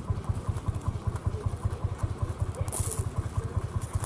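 Vintage engine running at an even, steady beat. A brief high hiss comes about two-thirds of the way in.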